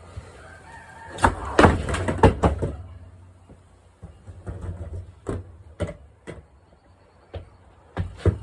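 Skateboard clattering against a hard floor during stationary tricks. A cluster of loud knocks and rattling comes about a second in, then single sharp knocks at irregular gaps of half a second to a second.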